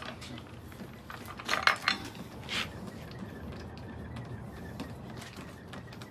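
Several sharp metallic clinks and knocks, clustered about one and a half to two and a half seconds in, then a few fainter ticks: metal parts and tools being handled.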